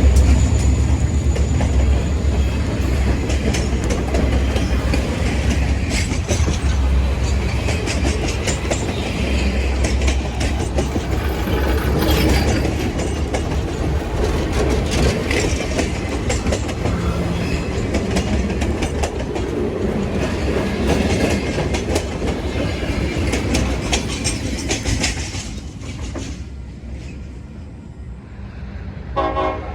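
Train passing close by: a steady low rumble with the wheels clicking over rail joints, dying away a few seconds before the end.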